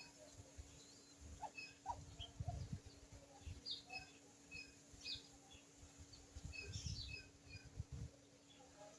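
Faint bird chirps: short, scattered high notes throughout, with low rumbling bursts twice, around a few seconds in and again near the end.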